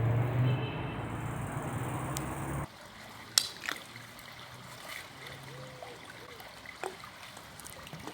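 A low steady hum stops abruptly about two and a half seconds in. It gives way to water trickling in a stream, with a few sharp clicks.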